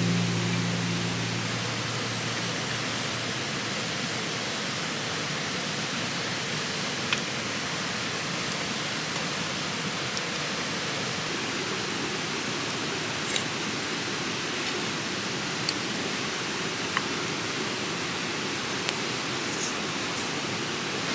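Steady rushing of a mountain stream, with a few faint scattered clicks over it.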